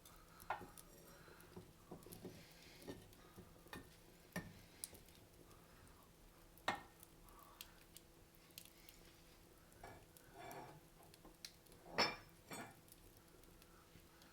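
Wood fire crackling in a fireplace: irregular pops and snaps over a faint hiss, the loudest pop about twelve seconds in.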